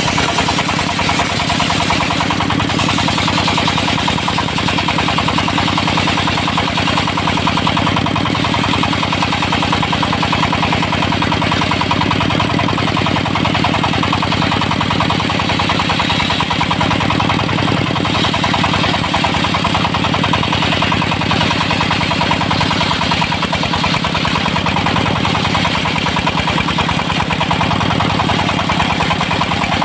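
Dongfeng diesel engine of a mobile circular sawmill running steadily.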